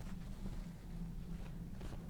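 Steady low electrical hum, with a few faint scratchy strokes of a brush working paint on the painting surface.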